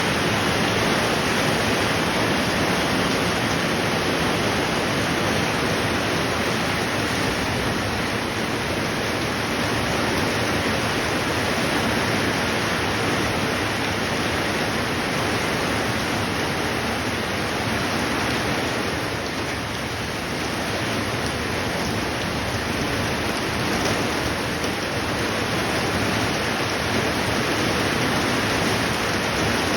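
Steady rain falling, a constant even hiss with no other distinct sounds.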